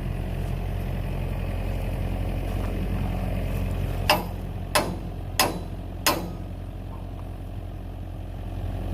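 Excavator's diesel engine idling steadily, with four sharp knocks about two-thirds of a second apart in the middle, as the stiff, seized locomotive brake cross shaft is worked at.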